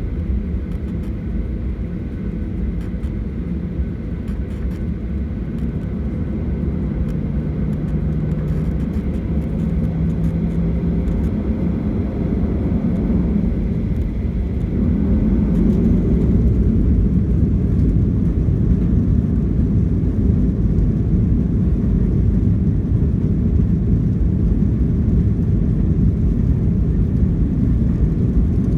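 Boeing 737-800's CFM56 jet engines heard from inside the cabin: a steady, deep rumble with a low hum. It grows louder about halfway through and stays louder.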